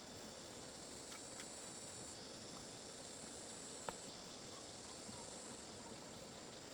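Faint outdoor ambience of insects droning steadily at a high pitch, with a few small clicks, the sharpest about four seconds in.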